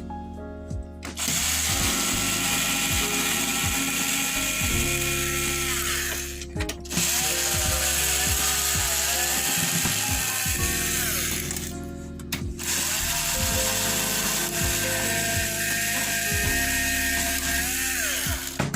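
Electric screwdriver running in three long bursts of about five seconds each, its whine sliding in pitch and dropping off as each run stops, working the screws on a TV's mainboard. Background music with steady low notes underneath.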